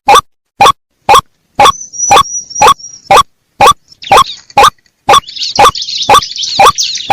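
White-breasted waterhen calling: a monotonous train of short, loud 'kruak' calls, about two a second. A thin high whistle sounds for a second and a half about two seconds in, and a high rasping chatter joins from about four seconds in.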